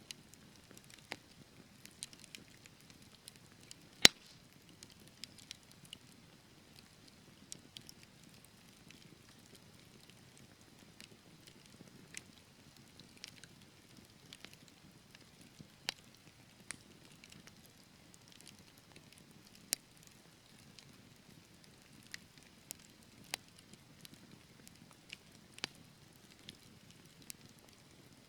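Wood fire burning in a fireplace: scattered sharp crackles and pops over a soft low hiss of the flames, with one loud pop about four seconds in.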